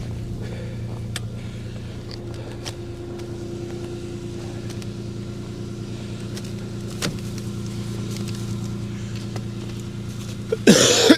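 A vehicle engine idling with a steady hum, with a few faint clicks. Near the end comes a brief, loud sound whose pitch slides downward.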